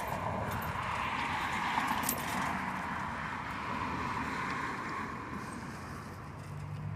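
Steady rushing noise of riding a bicycle, from the tyres rolling and air moving past, with no distinct separate events.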